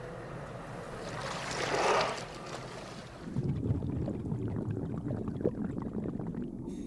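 Underwater ambience: a rush of water that swells and fades about two seconds in, then a low, crackling rumble of water.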